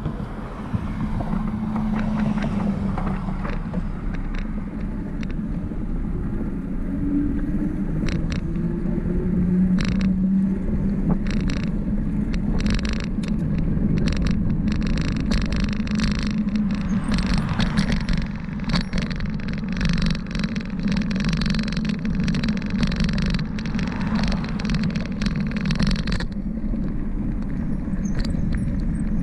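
Bicycle rolling fast downhill on a paved highway: wind over the microphone and tyre rumble on the road, with motor traffic passing. Frequent sharp clatter from the bike over road bumps through the middle, easing near the end.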